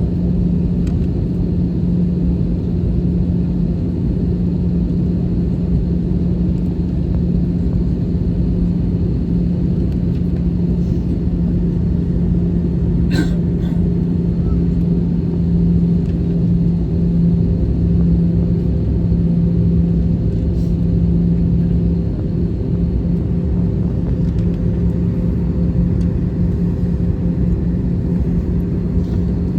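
Cabin noise of an Airbus A320 with CFM56 engines: a steady loud rumble with a constant low hum and no change in engine pitch. A single short click comes about 13 seconds in.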